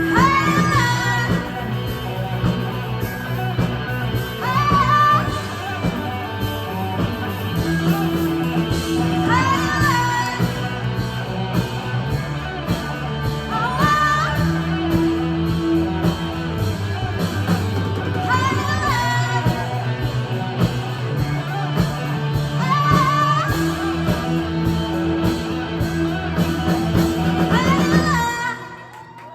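Live rock band playing with a singer: steady bass notes under guitar and drums, the vocal line rising into a high held note every four to five seconds. The music stops abruptly about a second before the end.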